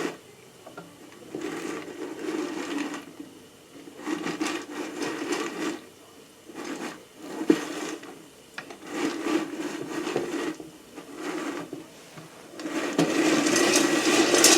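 Whirley Pop stovetop popcorn popper's hand crank being turned in spurts, its gears and stirring blade scraping unpopped kernels across the pan bottom while the pan heats, before any kernel has popped. The grinding comes in bouts of about a second, with one sharp click midway, and turns continuous and louder near the end.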